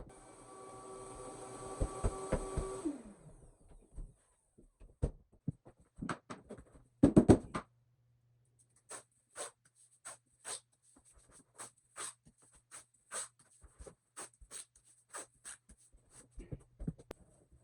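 Flooring work: a power tool's motor runs with a steady hum and winds down, falling in pitch, about three seconds in. Scattered knocks and a brief louder burst follow, then a steady run of short strokes, a little under two a second.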